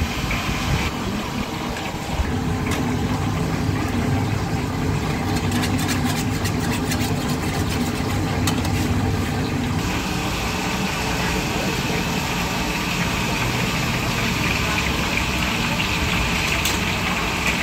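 A machine motor running steadily with a low hum, from the workshop's fish-paste pressing equipment.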